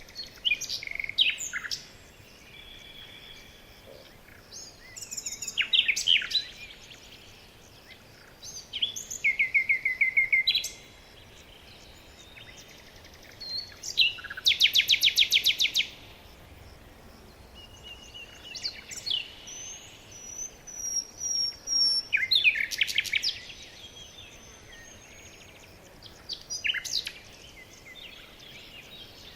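Songbirds singing in short phrases of chirps and whistles, separated by pauses of a few seconds, with a fast buzzy trill about halfway through.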